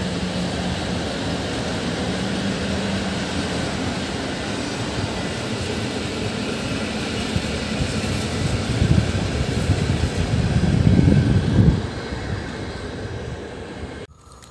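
Electric train running past on the rails: a steady rumble and hiss with a low hum. It swells to its loudest about three-quarters of the way through, then fades and cuts off suddenly near the end.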